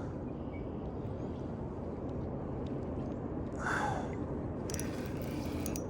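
Steady low rushing of wind and moving water, with a short sound a little before four seconds in and a brief hiss near the end.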